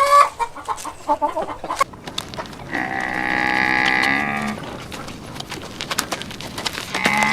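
A hen clucking in short, rapid calls, then a cow mooing: one long moo lasting nearly two seconds, and another beginning near the end.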